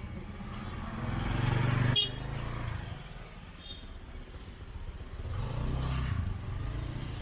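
Street traffic: two motor vehicles pass close by with their engines running, the first swelling to a peak about two seconds in and dropping off, the second passing around six seconds in.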